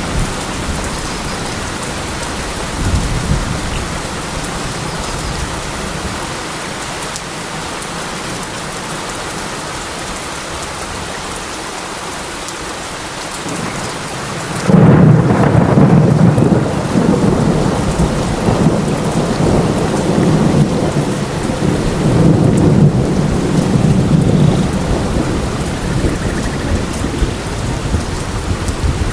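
Steady rain falling in a forest; about halfway through, a sudden loud crack of thunder breaks in and rumbles on for around ten seconds, swelling and easing.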